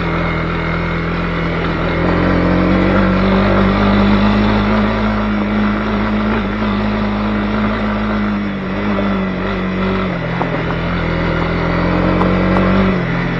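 Honda CB250R's single-cylinder engine running steadily while the motorcycle is under way, its note holding a steady pitch and then shifting down about ten seconds in and again near the end.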